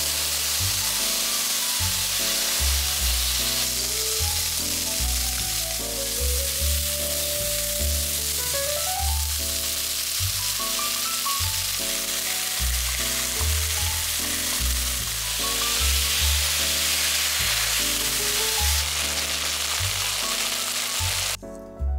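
Pork jowl strips sizzling in a hot frying pan as they are pan-fried and stir-fried with green onion and garlic. The sizzle cuts off shortly before the end, with soft background music throughout.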